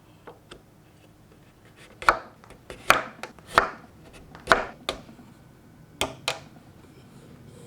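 A mallet striking wood: about seven sharp knocks at uneven intervals, some in quick pairs, with two faint taps before them, as in chopping or fitting a mortise-and-tenon joint by hand.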